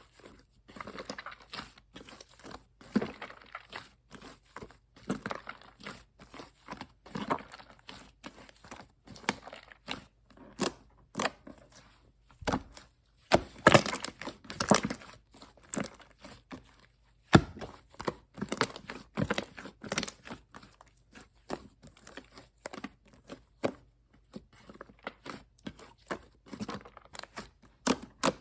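Hands squishing and stretching purple shaving-foam slime, with irregular sticky crackles and small pops, some louder clusters of them in the middle.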